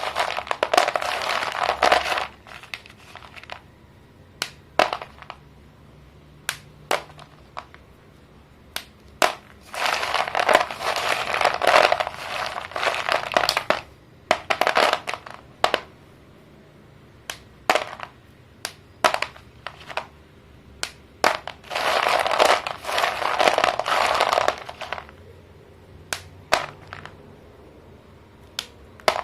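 Sticks of pink and purple chalk being crushed and snapped by hand: three stretches of dense crunching and crumbling, with sharp single snaps between them.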